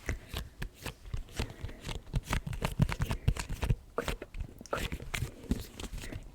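ASMR gripping sounds: hands squeezing and rubbing close against the microphone, giving a dense, irregular crackle of scratches and soft knocks.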